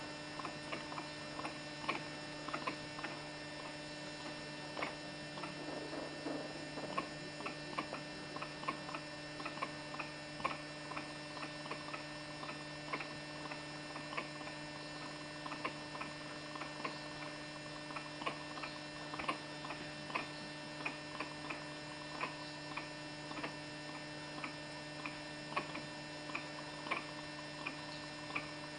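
A steady hum made of several fixed tones, with many short, irregular clicks, a few a second, over it.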